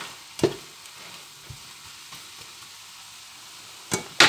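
Stir-fried vegetables, egg and chicken sizzling in a hot frying pan as a spatula stirs them, with a few sharp knocks, about half a second in and twice near the end, the last the loudest.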